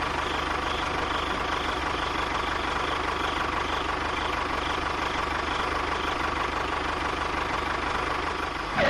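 A small motor running steadily, an even mechanical whirr with a faint steady tone.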